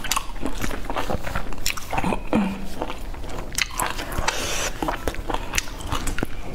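A person chewing a full mouthful of food close to a clip-on microphone: a dense, irregular run of short mouth clicks and smacks.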